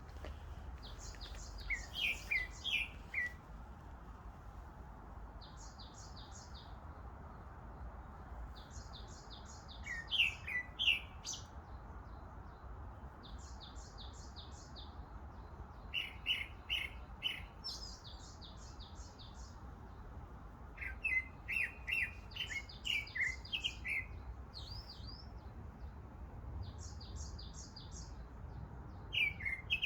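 Wild songbirds singing in the woods: short phrases of rapid, high repeated notes every few seconds, some ending in lower falling notes, over a steady faint background hiss.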